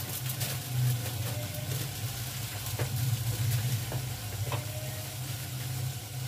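Bottle gourd pieces frying with meat and masala in oil in a metal pot on a gas stove: a steady sizzle, with a low steady hum underneath and a few faint clicks.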